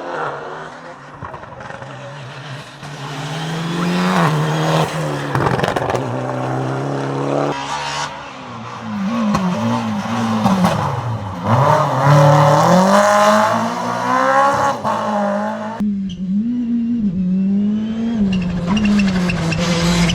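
Rally cars driven hard, engines revving up and down through gear changes with some tyre squeal, one car after another as the sound changes abruptly twice.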